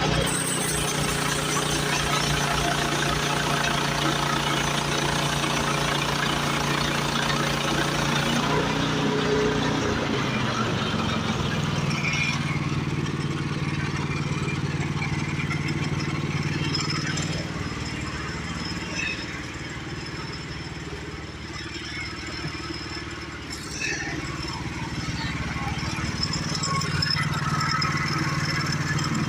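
Small gasoline engine of a portable bandsaw sawmill running steadily; its sound changes about nine seconds in and drops in level for several seconds around the middle.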